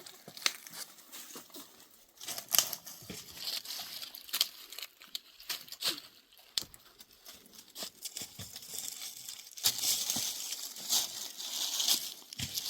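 Irregular rustling and crackling with many scattered sharp snaps and clicks, growing denser and more continuous about ten seconds in.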